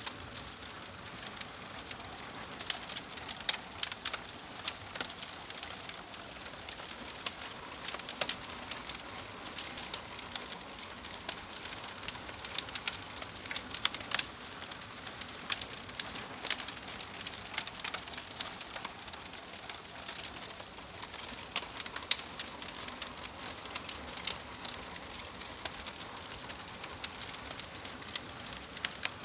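Fire crackling: a steady hiss broken by irregular sharp pops and snaps.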